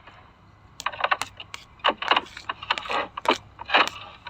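Irregular clicks, taps and light rattles of small packaged items being handled, the first second quieter.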